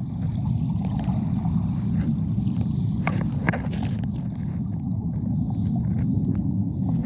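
Rushing water of a rocky waterfall stream, a steady low rumble with scattered short clicks about three to four seconds in.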